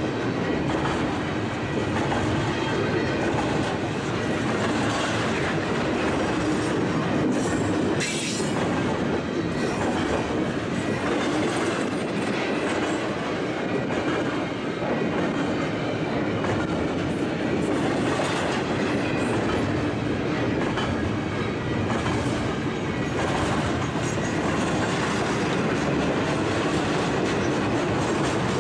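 Double-stack container train of well cars rolling steadily past at close range, with the continuous noise of steel wheels running on the rails. A brief, sharper high noise comes about eight seconds in.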